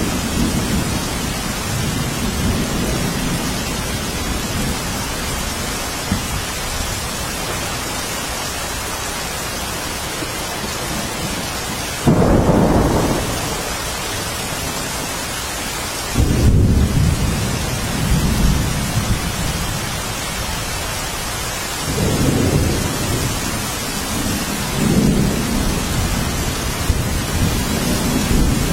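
Steady rain falling, with thunder: two sudden low rumbles about twelve and sixteen seconds in, and softer rolling rumbles later on.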